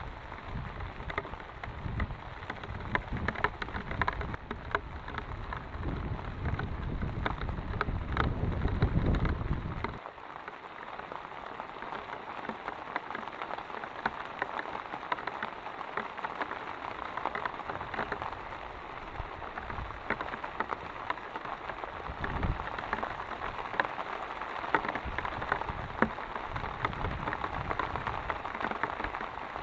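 Heavy rain falling, with dense pattering of individual drops on a surface. For the first ten seconds a deep low rumble runs under it, then stops abruptly.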